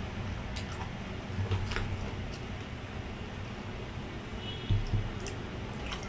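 A person chewing grilled skewered innards close to the microphone, with scattered small wet mouth clicks and a few soft thumps.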